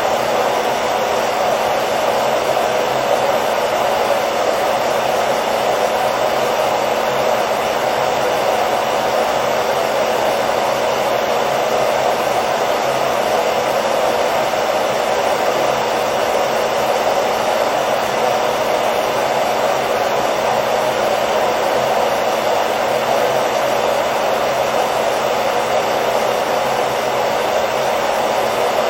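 Hair dryer running steadily on one setting, a constant whooshing blow of air with a faint motor hum underneath, used as a continuous soothing noise to lull a baby to sleep.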